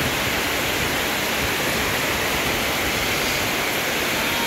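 Heavy rain pouring down in strong wind, a steady loud hiss.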